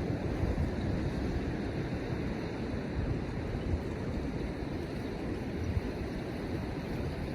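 Steady wind buffeting the microphone over the continuous wash of ocean surf on the beach, in a snowstorm.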